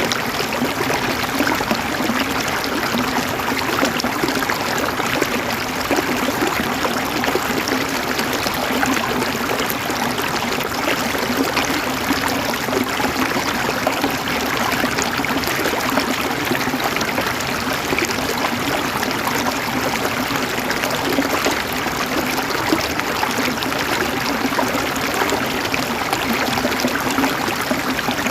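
River water flowing and gurgling over rocks, a steady, even rush with fine splashing throughout.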